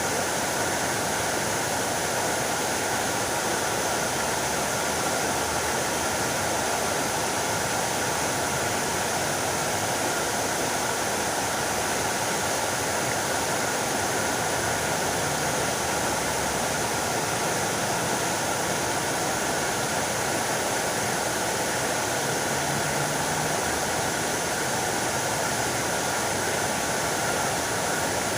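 Fountain water splashing steadily into its pool, an even rushing noise.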